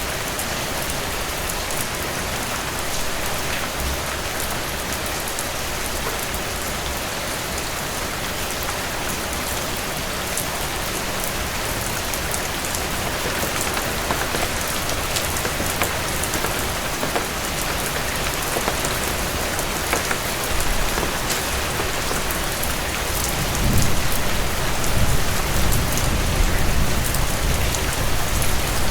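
Heavy rain falling steadily on a cabin porch, with fine drips ticking through it. About twenty seconds in, a low rumble swells up and grows louder.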